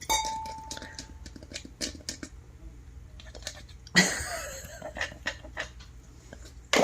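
Kitchenware being handled: a clink that rings for about a second, then scattered light taps and clicks, with a louder, noisier clatter about four seconds in.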